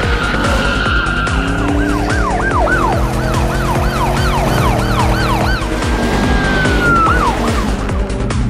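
Police siren: a held tone breaks into a fast yelp of about three rising-and-falling sweeps a second, then holds a steady tone again and slides down near the end, over background music with a steady beat.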